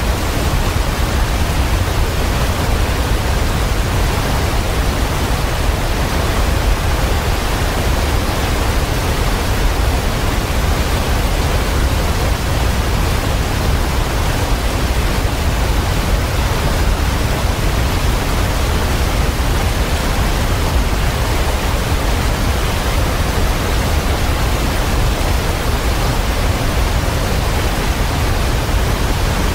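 Waterfall pouring: a steady, loud rush of falling water, heaviest at the low end, with no birds or other sounds standing out.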